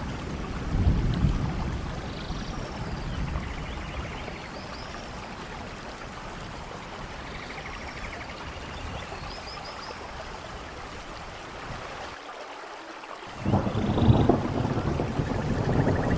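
Steady rain with thunder rumbling low, swelling about a second in and again more loudly near the end. Faint high chirps sound now and then through the rain.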